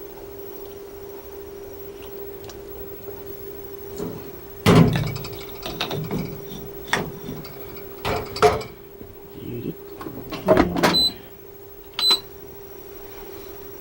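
Clunks and knocks of a countertop portable dishwasher being handled, as of its door and racks, several in a row over a steady hum. Two short high beeps sound near the end, as of its control panel being pressed.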